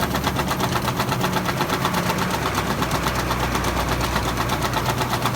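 Farm tractor's diesel engine running steadily at idle, with an even rhythmic pulse.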